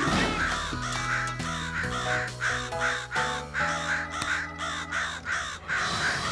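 A flock of cartoon crows cawing over and over, about two harsh caws a second and overlapping, over background music.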